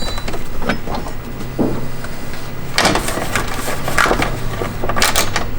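Irregular clicks, knocks and short scrapes of hand tools working on wiring at a battery terminal post, over a steady low hum.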